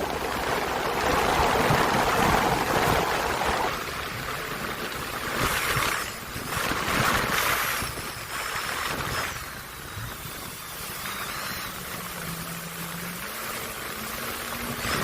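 Wind buffeting the microphone and water rushing past a moving watercraft, with a faint low engine hum in the second half.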